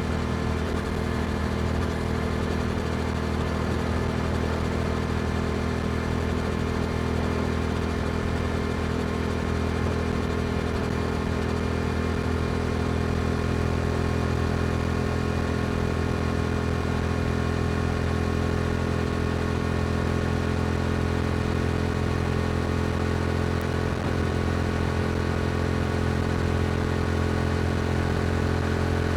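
Yamaha R7 motorcycle's parallel-twin engine through an Akrapovic exhaust, running steadily at an even pitch.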